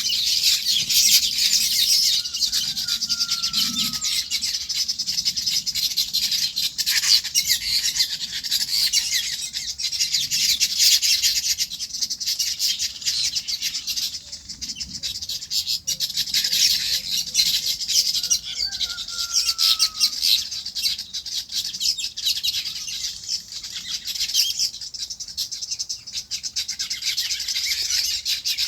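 Many birds chirping at once in a dense, continuous high-pitched chorus. A short falling whistle stands out twice.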